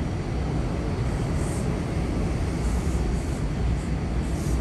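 Long Island Rail Road M7 electric multiple-unit train rolling past and pulling away, a steady low rumble of wheels on the rails with a few faint short hisses.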